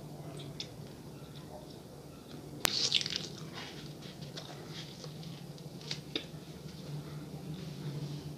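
Close-up mouth sounds of chewing soft cheese bread (peta de queijo), with small wet clicks of the mouth. A sharp click comes about two and a half seconds in, followed by a brief louder bite, over a faint steady hum.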